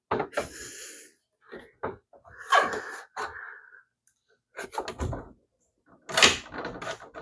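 Hard plastic pool-ladder parts knocking, clicking and scraping as they are forced into place, mixed with a few sharp huffs of breath.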